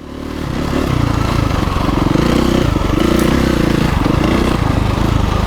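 KTM 350 EXC-F dirt bike's single-cylinder four-stroke engine running steadily, fading in over the first second.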